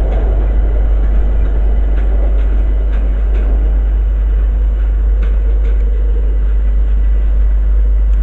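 Electric train moving through the station: a steady, loud rumble with a few faint clicks.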